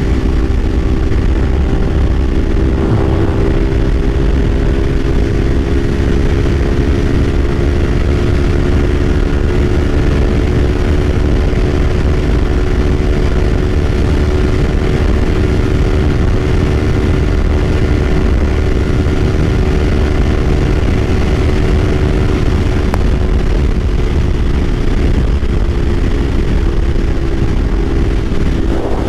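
Kawasaki Ninja 500's parallel-twin engine running at a steady cruising speed, its pitch holding almost level, over a heavy low rumble of wind.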